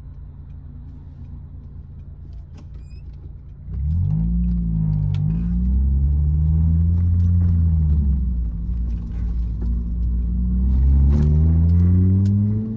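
Honda K20Z1 four-cylinder engine of an Acura RSX Type-S breathing through an Invidia N1 cat-back exhaust. It hums low and steady at first, then about four seconds in it opens up loudly. The revs climb, ease off, and climb again higher near the end before backing off.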